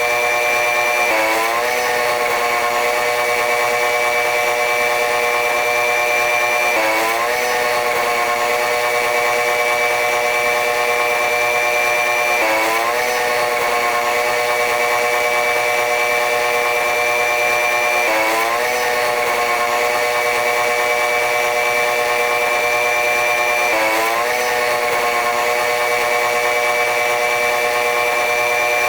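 Running noise of a diesel-locomotive-hauled train, heard as a steady, loud whine with several pitches that slowly rise and then drop abruptly, repeating about every five and a half seconds.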